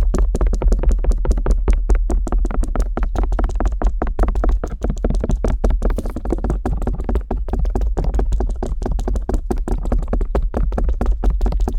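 Stainless steel ear pick scraping and tapping rapidly on the ear of a binaural microphone: a fast run of sharp scratchy clicks, many a second, over a deep rumble from the contact with the mic.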